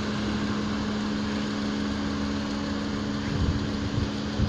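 Steady hum of an idling car engine: two level tones over a low rumble.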